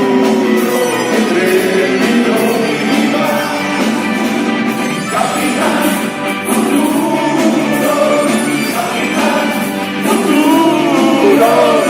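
Live band music with singing voices.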